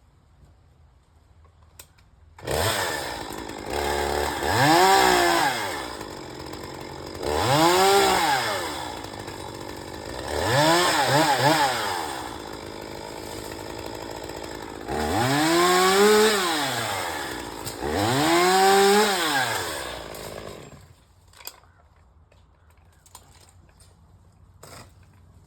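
A chainsaw comes on about two and a half seconds in and is revved up five times, each rev rising and falling in pitch over a second or two, with a lower steady running between revs. It stops a few seconds before the end.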